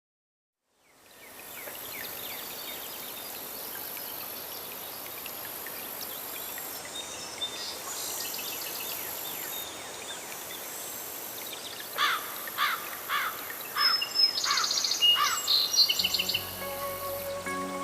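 Nature-sound ambience fading in after a moment of silence: a steady hiss with birds chirping, and a louder run of quick repeated bird calls later on. Soft instrumental music with a low bass comes in near the end.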